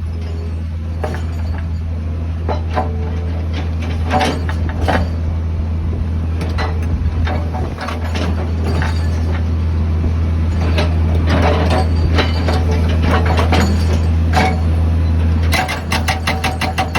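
Heavy machine's diesel engine running under load, with irregular metallic clinks and clanks over it. Near the end it drops back to an even, pulsing idle.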